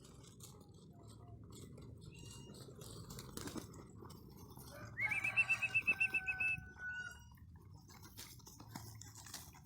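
Birds calling: a fast trill of about ten high chirps roughly five seconds in, with a few single short chirps around it, over faint clicks and rustling.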